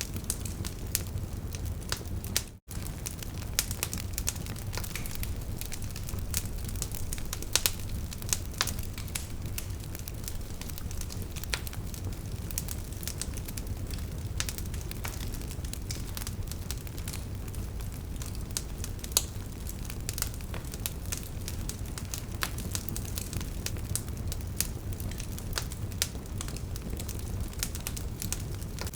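Wood fire crackling: frequent sharp pops and snaps from burning logs over a low steady rumble of flame. There is a brief dropout about two and a half seconds in.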